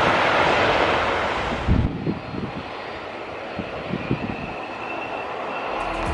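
Boeing 747 jet engines running loud, a steady rushing noise that drops off suddenly about two seconds in to a quieter low rumble with a few dull thumps. Music starts near the end.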